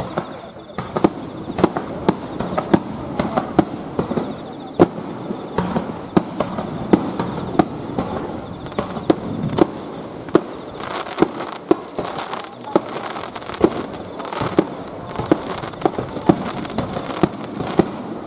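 Fireworks bursting overhead: a long, irregular series of sharp bangs, about one or two a second, with a steady high-pitched drone underneath.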